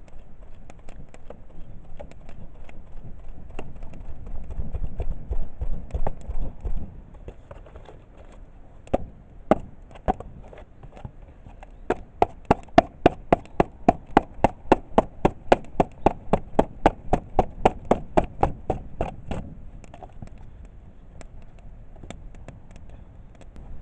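Wood being knocked or chopped: scattered knocks at first, then about halfway through a fast, even run of sharp knocks, about five a second, lasting some seven seconds.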